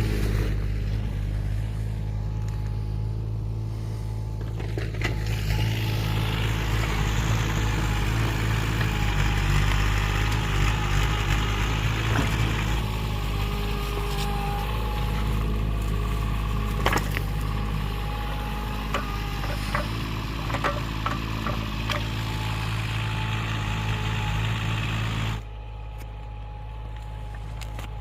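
Excavator engine running steadily, with scattered knocks and scraping over it. The sound drops off abruptly near the end.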